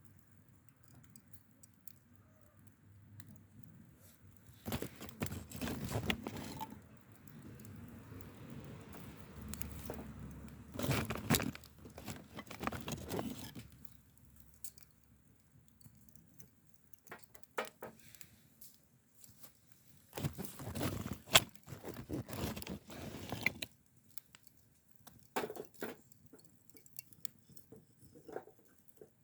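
Rustling and crinkling handling noise in several bursts, with scattered clicks and light knocks between them.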